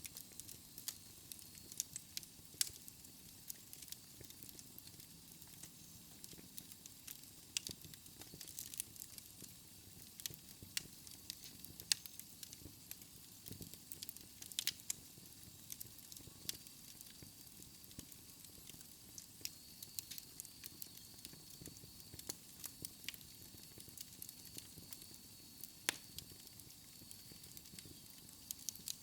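Wood fire burning in a fireplace: a soft steady hiss and low rumble of the flames with irregular sharp crackles and pops of the burning logs.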